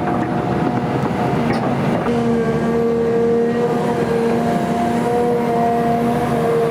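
XCMG XE310GA excavator's diesel engine running steadily with a pitched whine, which grows stronger about two seconds in.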